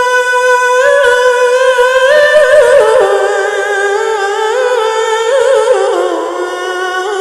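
A man's voice chanting the adhan, drawing out one long melismatic note on "hayya 'ala" without accompaniment. The note is held level, steps up twice in the first couple of seconds, then turns into wavering ornamental runs that slide lower toward the end.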